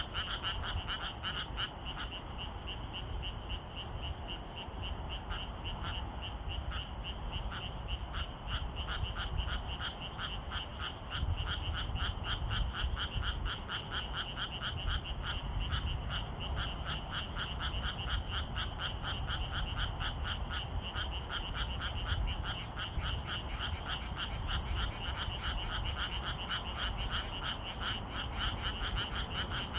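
A chorus of frogs calling in the evening, many rapid pulsing croaks, several a second, overlapping into a continuous din with a steadier high trill above them. A low rumble runs underneath.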